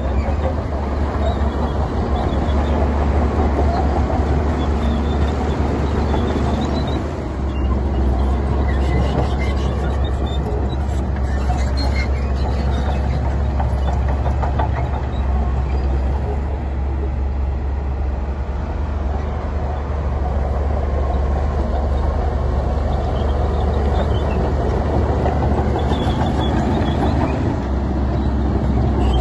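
Heavy diesel earthmoving machinery running steadily: a deep engine drone with continuous rattling and clatter.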